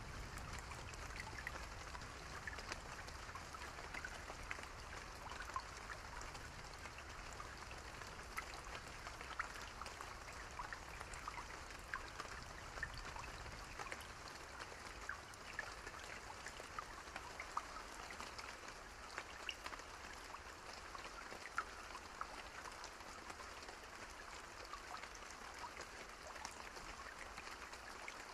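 Steady rain with many individual drops ticking close by, over a soft even hiss of rainfall.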